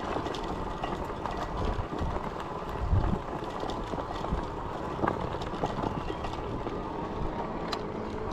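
Ecotric 20-inch folding fat-tire e-bike ridden along a walking path: a steady rolling noise, with scattered clicks and a few low knocks from bumps along the way.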